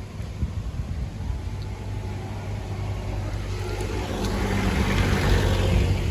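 A motor vehicle passing, getting louder to a peak near the end and then falling away, over a steady low rumble.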